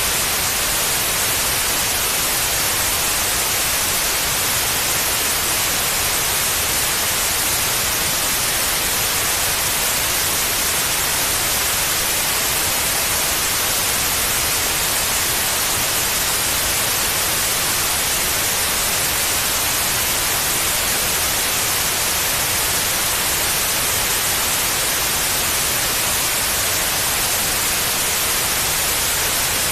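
Steady white noise, an even hiss with no change, played continuously as a sleep aid for a baby.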